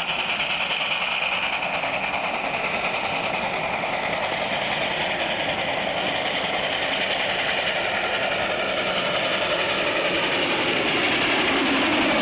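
Train running with a steady rolling noise that slowly grows louder towards the end.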